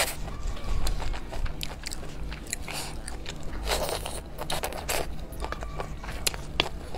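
Close-up eating sounds: biting into and chewing crunchy chicken feet, with crisp cracks and wet crackling. Near the end a wooden spoon scrapes in the metal pot.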